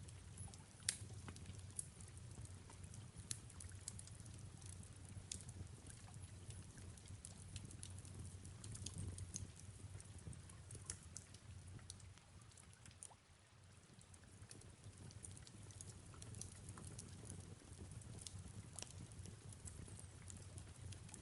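Faint fireplace fire crackling, with scattered sharp pops over a low steady rumble, and soft rain falling in a steady hiss.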